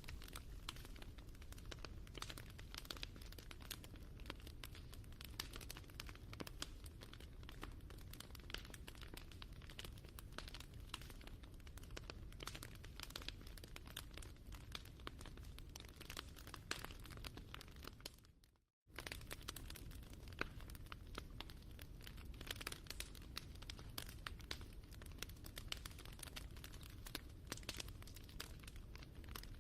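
Campfire crackling: a faint, dense, irregular patter of small pops and snaps over a low rumble. The sound cuts out completely for a moment about two-thirds of the way through, then resumes.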